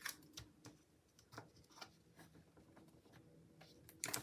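Faint, scattered light taps and short paper rustles from handling sticker sheets and placing a box sticker on a planner page, with a small cluster of them near the end.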